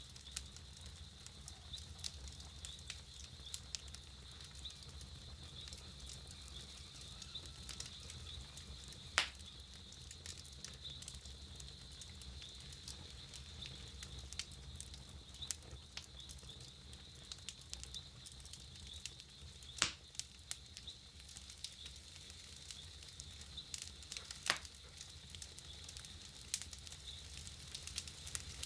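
Wood campfire burning, crackling steadily with many small ticks and three louder sharp pops spread through.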